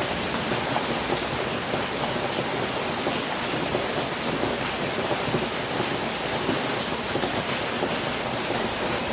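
Steady rain falling on a house roof, an even hiss. Short high chirps recur through it, about one every half second to a second.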